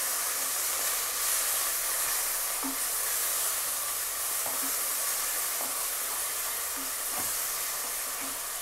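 Sliced onions and ginger-garlic paste sizzling steadily in hot ghee and oil while being stirred with a wooden spatula, with a few faint knocks of the spatula against the pot. This is the paste being fried until its raw smell goes.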